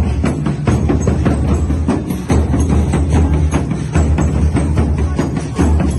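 Sinulog-style festival drumming music: dense, fast percussion over a heavy low drumbeat.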